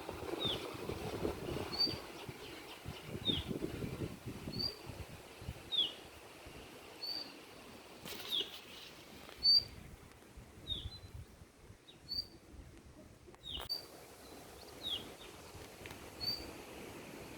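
A songbird repeating a short, high two-note call about every second and a half: a quick rising note, then a falling one. Underneath is the low rush of river water, strongest in the first few seconds.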